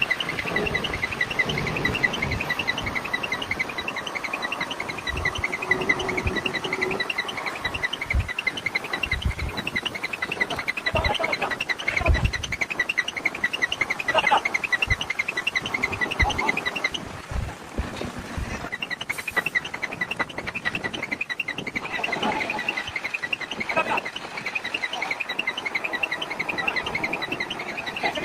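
Insects chirping in a rapid, steady, high-pitched rhythm, with scattered low thumps and knocks.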